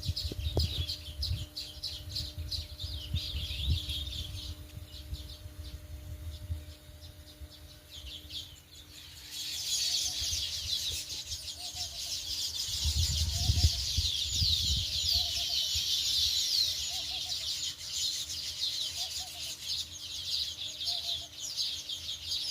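A flock of sparrows chirping, many calls overlapping, thinning out for a few seconds in the first half and then building back up, denser than before. Low rumbles come in at the start and again about halfway through, and faint low notes repeat about every second or so in the second half.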